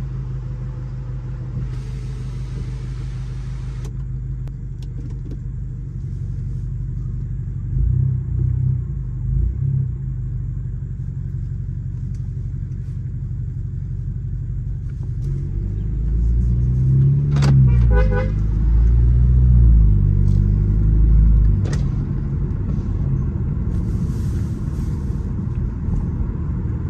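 Turbocharged BMW B48 2.0-litre inline-four, tuned to stage 1, heard from inside the cabin while driving. It runs steadily, revs up and down briefly about eight seconds in, then pulls harder and lets off around sixteen to twenty-one seconds in. A few sharp knocks come from the tune's exhaust burbles.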